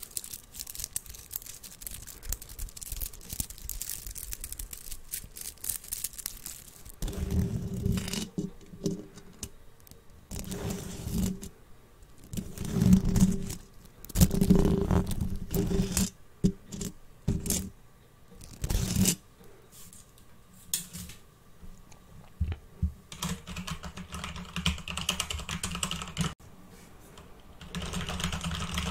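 Fast, dense tapping on an object close to the microphone. About seven seconds in it gives way to irregular, louder handling sounds with short pauses between them, and steadier rustling comes near the end.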